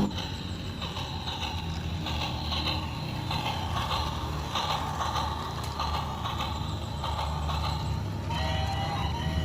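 Model electric multiple unit train running on its track: a steady low motor hum with irregular clicking and rattling from the wheels on the rails.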